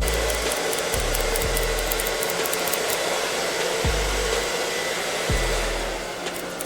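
Hair dryer blowing steadily, switched on at the start, over background music with a deep bass beat.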